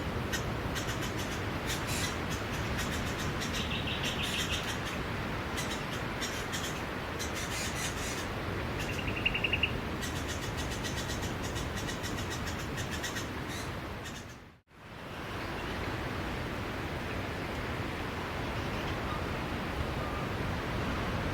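Steady wash of sea waves on a beach, with many small sharp clicks through the first half and two short high bird chirps, about 4 and 9 seconds in. About two-thirds of the way through, the sound fades briefly to silence and comes back.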